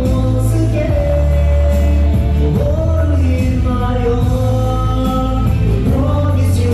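Amplified live singing over a karaoke-style backing track with a steady heavy bass, heard in a large hall.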